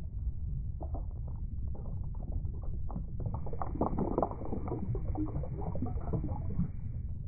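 Water splashing and sloshing, with a run of irregular small splashes and crackles that gets busier about three seconds in.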